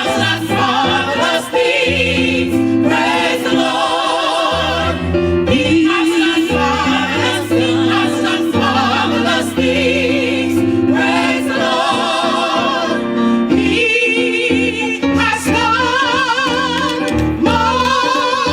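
Gospel choir singing with instrumental accompaniment and a steady bass line, the voices swooping with strong vibrato.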